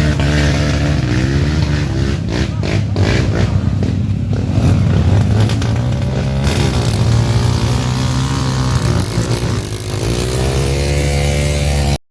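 Off-road motorcycle engines revving up and down in mud, the revs rising and falling several times over a steadier engine drone underneath.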